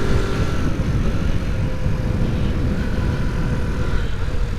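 Honda C90's small four-stroke single-cylinder engine running steadily on the move, under heavy wind rumble on the microphone.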